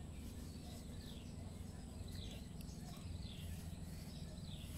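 A bird calling over and over, a short falling chirp about once a second, over a steady low rumble.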